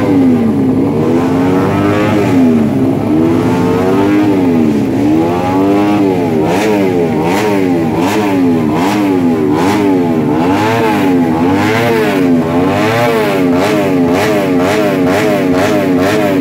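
Single-cylinder engine of a Yamaha underbone race motorcycle on its paddock stand, revved up and down over and over at the throttle during warm-up before a race. The blips come quicker about six seconds in, with sharp crackles over them.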